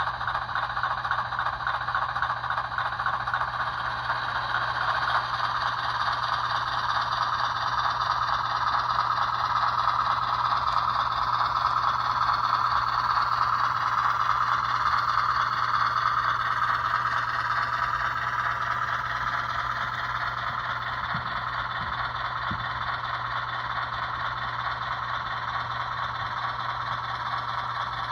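HO scale model diesel locomotive, a 44-tonner switcher, running along the layout track with a steady whir and rattle from its motor, gears and wheels on the rail. The sound grows louder about a third of the way in and eases off again after the middle.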